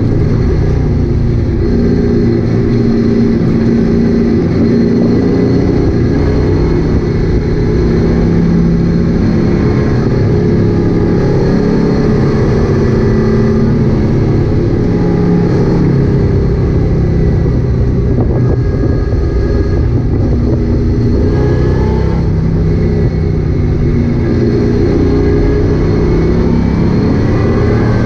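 1965 Chevrolet Chevelle's engine running hard at track speed, heard from inside the cabin, its pitch rising and falling with the throttle.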